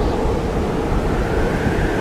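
Blizzard wind blowing steadily: a dense, unbroken low rush with a faint thin whistle above it.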